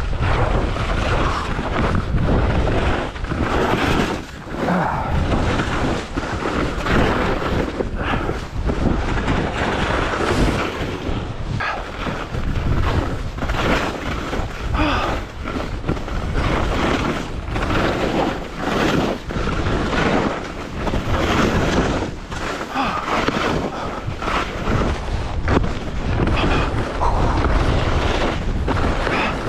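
Wind rushing over an action camera's microphone while skiing downhill, loud and gusty, with uneven surges as the skis scrape through turns on the snow.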